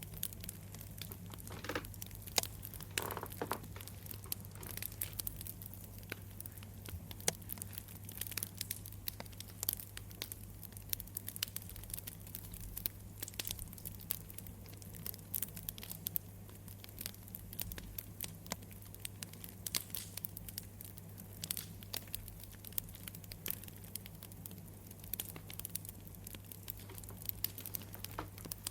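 Campfire crackling: burning wood giving off irregular pops and snaps, over a low steady hum.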